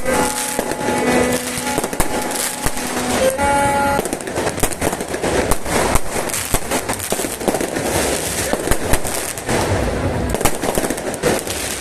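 Fireworks going off in a dense, continuous run of sharp bangs and crackles. A steady held tone sounds over them for about the first three seconds.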